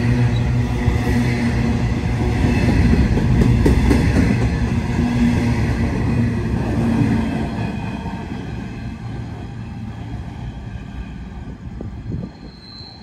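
Coal train's hopper wagons rolling past at close range, a steady rumble of wheels on rails. It fades away over the last several seconds as the end of the train passes.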